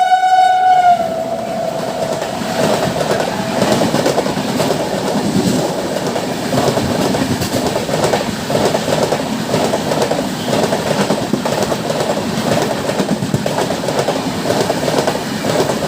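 A train horn sounding and dying away about a second in, then a train running past on the rails, its wheels clattering steadily over the rail joints.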